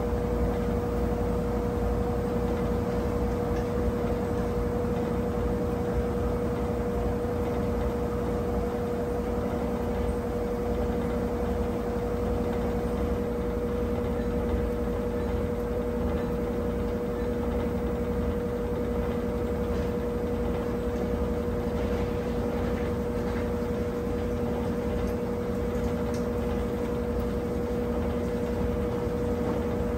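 Brastemp 17 kg top-load washing machine running with a steady motor hum, a constant mid-pitched whine over a low rumble.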